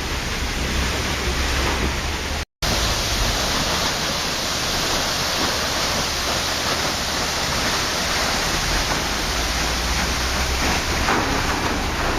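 Waterfall: a steady, even rush of falling water that cuts out completely for a split second about two and a half seconds in.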